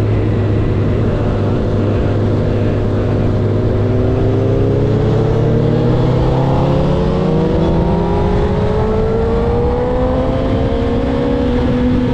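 Honda CB1000R's inline-four engine running steadily. Its pitch climbs slowly through the middle and then holds.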